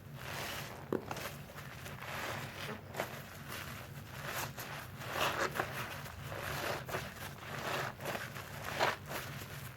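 A soapy, suds-filled sponge being squeezed and released by hand: irregular wet squishes and crackling of foam, loudest about five seconds in and again near the end.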